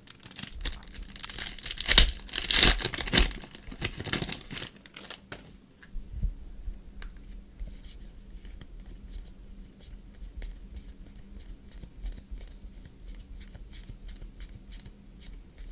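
Foil trading-card pack wrapper torn open and crinkled for the first few seconds, then a run of soft, quick ticks, about three a second, as the cards are flipped through one by one.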